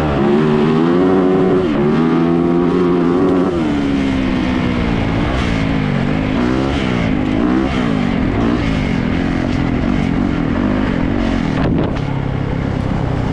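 Yamaha YZ450 dirt bike engine being ridden, its pitch climbing and dropping again and again with the throttle and gear changes.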